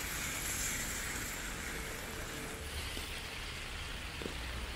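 Rain falling steadily on a city street: an even hiss with a low rumble underneath.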